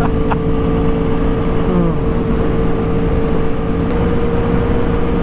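Sport motorcycle engine running at a steady high highway speed, its drone holding one even pitch under heavy wind rush. A brief falling tone sounds about two seconds in.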